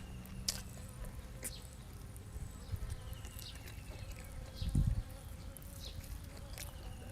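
Steady insect buzzing with short repeated chirps, scattered light clicks, and a dull low thump about five seconds in.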